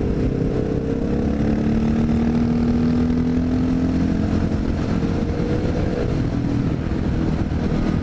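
Honda XR650L's single-cylinder four-stroke engine running on the move, its pitch rising a little over the first second or two and then holding steady, over low wind rumble on the microphone.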